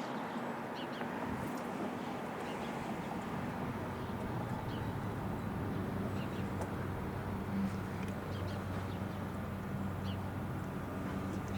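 Outdoor ambience with scattered short, high bird chirps over a steady hiss, and a low steady engine hum that comes up about four seconds in and holds.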